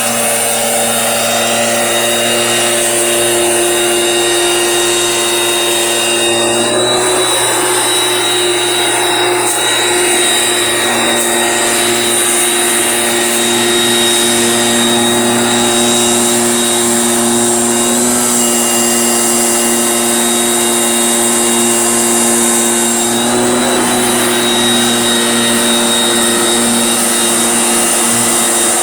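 Small engine of a motorised sprayer pump running steadily at a constant speed, with a slight change in pitch about seven seconds in and again near the end.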